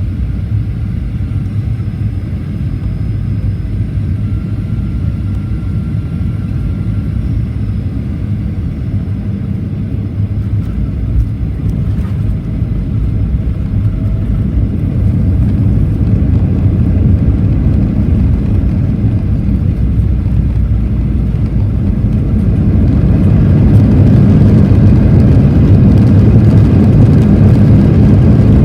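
Cabin noise inside a Boeing 737-800 in flight: a steady, loud low rumble of its CFM56-7B engines and airflow. It grows louder about halfway through and again near the end.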